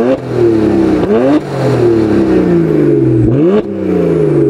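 BMW 1M Coupé's twin-turbocharged straight-six revved at a standstill, heard at the tailpipes. It falls back from a blip, then is blipped twice more, about a second and a half and three and a half seconds in, each time the note dropping slowly back toward idle.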